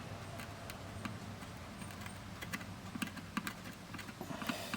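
Light clicks and taps of small plastic parts being handled, the opened multimeter's case and selector switch knocking on a bench: a few at first, coming more often near the end.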